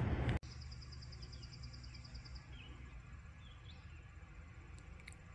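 Quiet morning outdoor ambience with birds: a high, rapid, even trill lasting about two seconds, then a few short faint chirps, over a low steady rumble. It opens with a moment of louder noise that cuts off abruptly.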